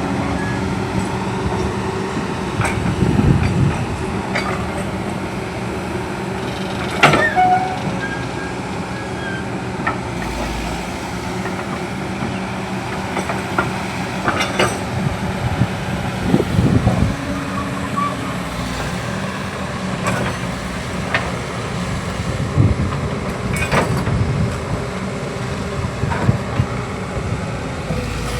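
Excavator's diesel engine running steadily, with a few sharp knocks and clanks scattered through.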